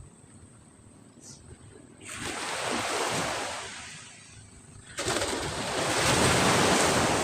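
Ocean surf washing in, in two surges: one rising about two seconds in and fading, then a louder one that starts suddenly about five seconds in.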